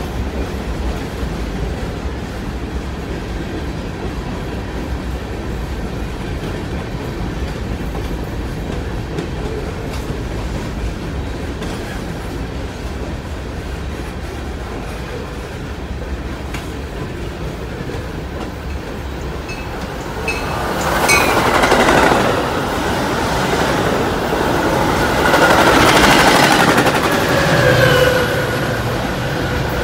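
BNSF coal train's hopper cars rolling past with a steady rumble and wheel clatter. About 20 seconds in a Metra diesel commuter express passes on the nearer track, bringing a louder rush of wheels and engine that swells and peaks a few times near the end.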